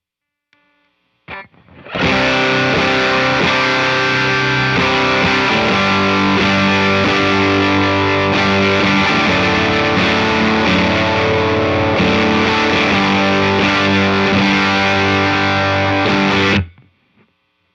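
Heavily distorted electric guitar riff through a JHS Kilt overdrive pedal set for high gain with its G2 switch on, into a Walrus Audio ACS1 amp simulator. It comes in with a short strum just over a second in, plays steadily from about two seconds, and cuts off sharply near the end.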